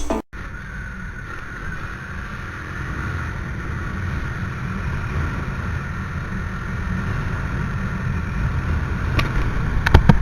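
Motorcycle engine running while riding, with wind rushing over the camera microphone, slowly growing louder. A few sharp knocks near the end.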